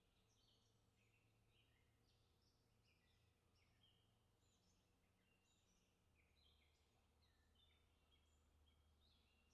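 Very faint birdsong: several birds chirping, with many short overlapping calls all through.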